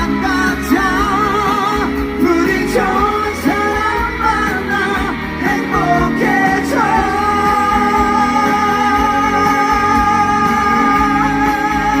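A live rock band performing, with a male lead singer over guitar and drums. About seven seconds in, the singer settles into one long held note with a light vibrato that lasts the rest of the way.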